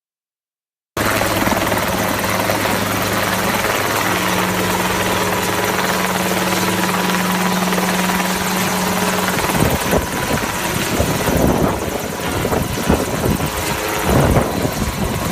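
Helicopter running close by, a loud steady rush with a low engine-and-rotor hum. About nine seconds in the hum drops away and the sound turns rougher and uneven, with irregular knocks.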